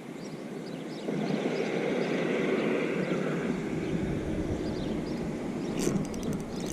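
A steady mechanical drone, like a motor heard across open water, that swells about a second in and then holds.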